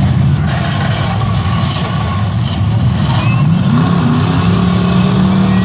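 Demolition derby cars' engines running loudly, one revving up about three and a half seconds in and holding the higher pitch.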